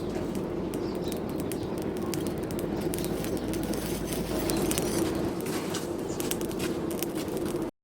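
Birds cooing steadily, with faint scattered ticks over it; the sound cuts off abruptly near the end.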